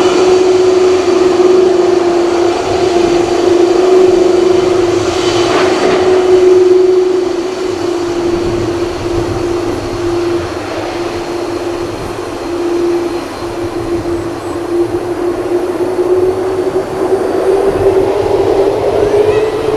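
Airbus A330 jet engines running loud, a steady whine over a broad roar that swells briefly about five seconds in and rises in pitch near the end.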